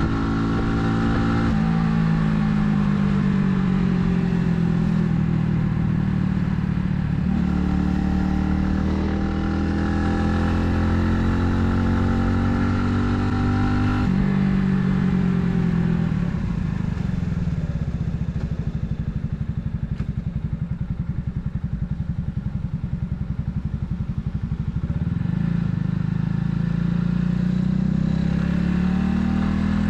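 Italika 250Z motorcycle engine running while riding, its pitch falling as it slows with a change of gear about seven seconds in. In the middle it drops to a low, pulsing beat for several seconds, then rises again near the end as the bike accelerates.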